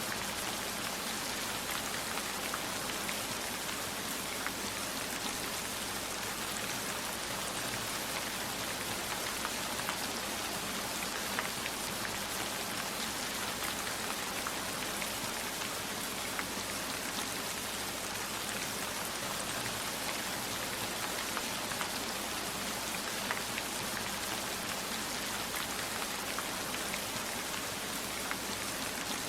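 Steady heavy rainfall, an even hiss with many small, sharp drop ticks scattered through it.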